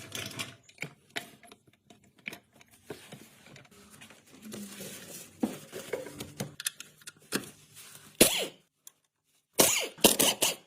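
Hand tools clicking, tapping and knocking on metal engine parts in an irregular series, with a cluster of louder knocks near the end.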